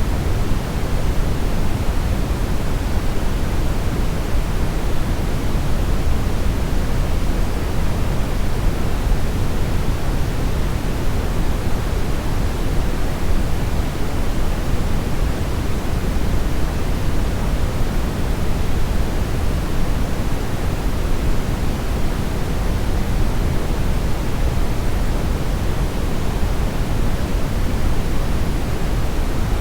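Steady synthetic brownish noise: a constant, even rushing hiss weighted toward the low end, with no changes or events.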